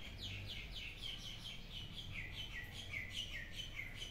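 A small bird chirping in a quick series of short, high notes, about five a second, stepping gradually lower in pitch.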